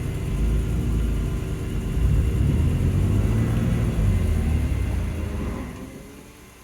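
2020 BMW M2 Competition's twin-turbo straight-six running under load with a low rumble, fading away about six seconds in.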